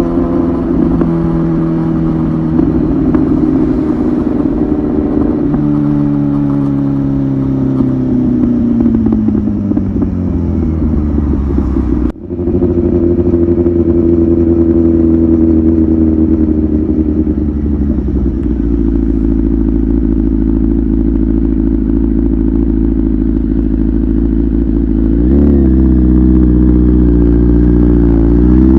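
Kawasaki ZX-10R's inline-four engine running through an aftermarket titanium muffler while riding. The engine note falls away over several seconds as the revs drop, cuts out for a moment, then holds steady. The revs rise quickly twice near the end.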